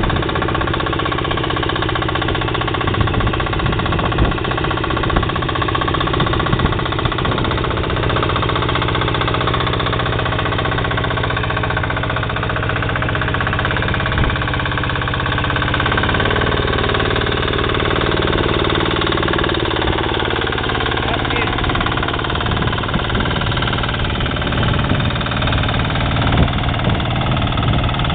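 Engine of a Motor Sich-based mini-tractor running steadily. Its note changes about halfway through.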